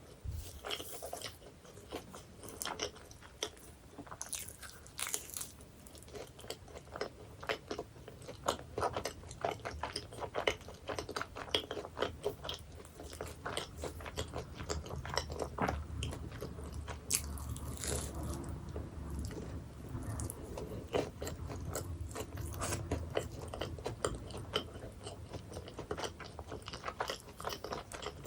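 Close-miked chewing of flaky pie pastry: crisp crackles and crunches with wet mouth sounds between them.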